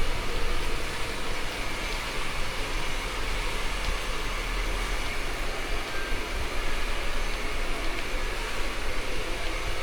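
Rain falling steadily, a constant even hiss with a low rumble underneath.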